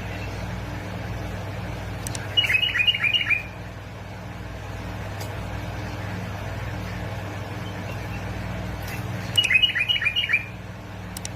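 Bulbul singing: two short phrases of about five quick falling notes, the second about seven seconds after the first, over a steady low hum.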